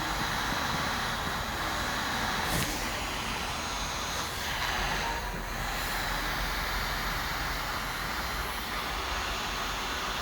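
Small portable air conditioner's fan running, a steady rush of blown air, with a faint click about two and a half seconds in.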